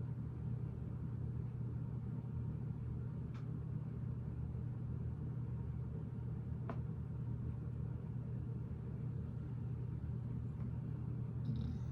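Steady low background hum throughout, with two faint sharp clicks, about three seconds apart, of plastic Lego pieces being handled or pressed together.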